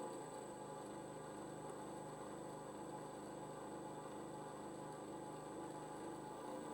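Variable-speed bench grinder's 1 HP motor and wheels running steadily, a hum with a slow regular pulsing and a faint high whine.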